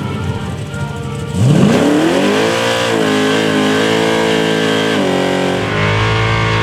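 A vehicle engine revs up sharply about a second and a half in, then holds at high revs, dipping briefly now and then. Background music plays underneath.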